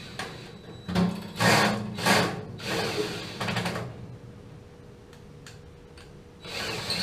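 Tool work on a snapped-off bolt in a water heater's burner assembly: several short bursts of a motorised tool grinding on metal between about one and four seconds in, then it goes quiet. The tool is trying to extract the broken bolt with a self-tapping screw.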